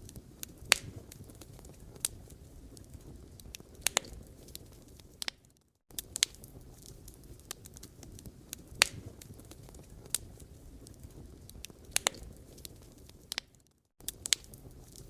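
Wood fire in a fireplace crackling, with irregular sharp pops over a low steady rumble of the flames. The sound fades away briefly twice, about five seconds in and again near the end, and comes back suddenly each time.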